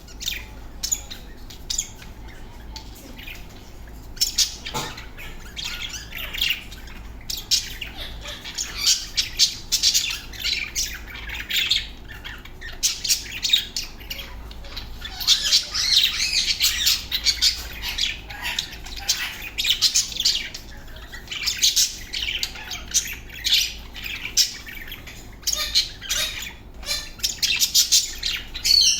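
A pair of budgerigars chattering and warbling: rapid high chirps and squawks, sparse at first and near-continuous after about eight seconds.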